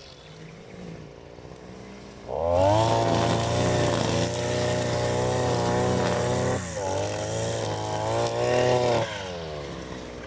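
Engine of a new lawn mower being run in, running steadily; it gets much louder about two seconds in as it comes close, dips briefly in the middle, and drops away near the end.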